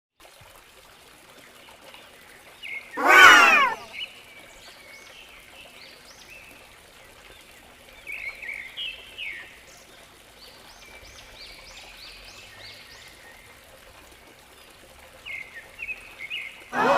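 Small birds chirping. Two loud calls, each about a second long, fall steeply in pitch, about three seconds in and again at the very end.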